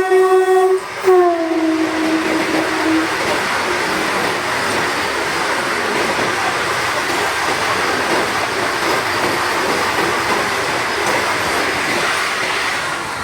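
Indian electric express train sounding its horn twice, the second note dropping slightly in pitch as the train passes, then the steady rush and rattle of the train going by at speed.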